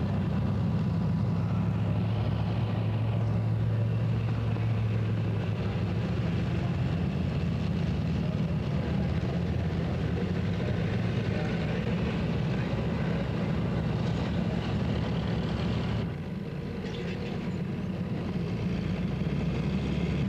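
Pulling tractor's engine running hard under load, a steady low drone that eases off in level near the end.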